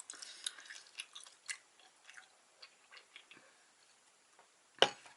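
Close-up mouth sounds of someone chewing food, with small wet clicks and crackles. One sharp click about five seconds in stands out as the loudest sound.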